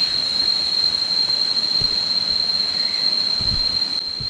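Steady, unbroken high-pitched insect drone, typical of cicadas in tropical forest, over a background hiss, with a few soft low knocks about three and a half seconds in.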